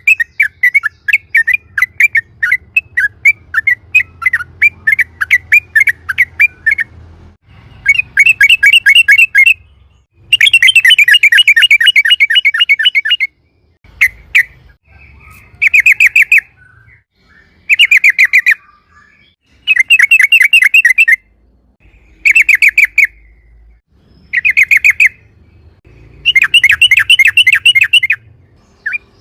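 Yellow-vented bulbul (trucukan) singing: first a run of quick chattering notes, then repeated loud, fast rolling trills of a second or more each, broken by short pauses.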